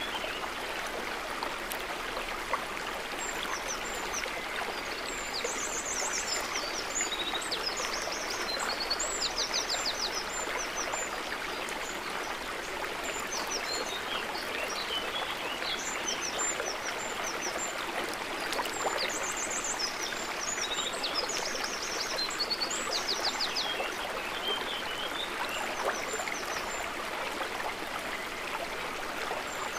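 Steady, gentle babble of small lake water, with small birds calling throughout in short high chirps and quick trills.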